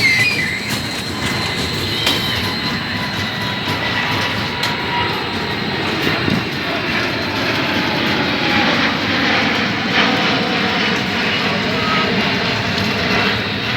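Boeing 787-9's two Rolls-Royce Trent 1000 turbofan engines at takeoff power: a steady, loud jet noise with a faint high-pitched whine.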